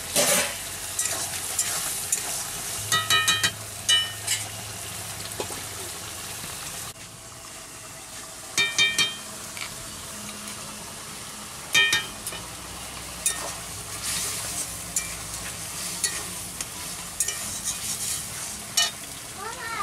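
Curry sizzling and frying in a steel wok over a wood-fired clay stove, stirred with a metal spatula. Steel utensils clink sharply several times, in a cluster about three to four seconds in, again around nine seconds and once near twelve seconds.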